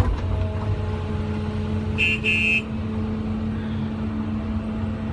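Truck engine running steadily, a low even drone heard from inside the cab. About two seconds in, two short high-pitched beeps sound in quick succession.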